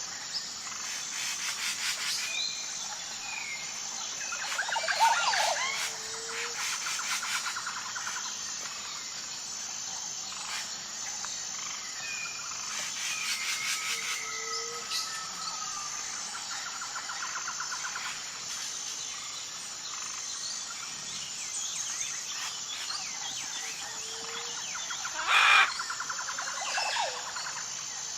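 Outdoor wildlife chorus: birds whistling and trilling, with frogs and insects. A steady high pulsing insect tone runs underneath, a short low call repeats about every six seconds, and one louder call stands out near the end.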